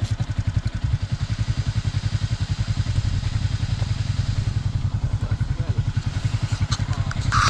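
Yamaha NMAX scooter's single-cylinder engine running steadily under way, with a fast, even pulse. A few sharp clicks and a brief high squeak come near the end.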